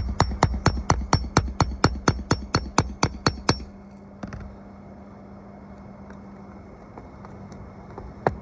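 A fast, even run of about seventeen hammer strikes, roughly five a second, stops after about three and a half seconds. Two more single knocks follow later, over a steady low hum.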